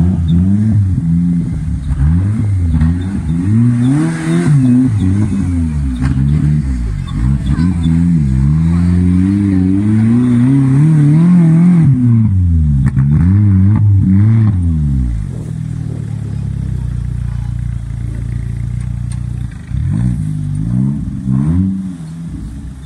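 Off-road 4x4's engine revving up and down in repeated bursts as it works through deep mud ruts and up a steep bank. About two-thirds of the way through it drops to a low, steady run for a few seconds, then revs in bursts again near the end.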